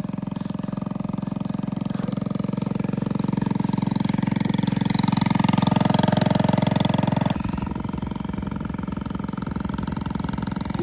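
Small engine of a Dax minibike running, just brought back to life. It gets louder and busier for several seconds, then drops back suddenly about seven seconds in and runs on steadily.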